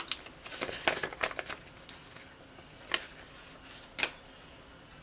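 Planner stickers and paper being handled: quick crinkling rustles in the first second and a half, then three sharp clicks about a second apart.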